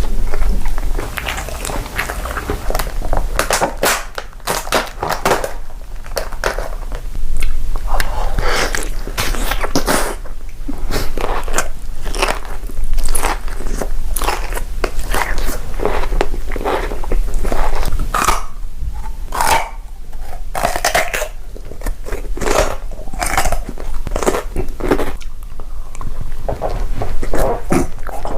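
A person biting and chewing crunchy food close to the microphone, with a steady stream of loud, irregular crunches and mouth sounds. A low steady hum runs underneath.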